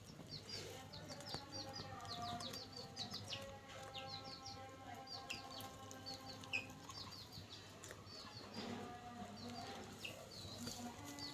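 Chicks cheeping: many short, high falling peeps, repeated rapidly and continuously.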